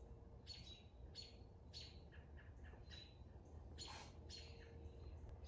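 Faint bird chirps: short high calls repeated every half second or so, with a few lower, falling notes between them.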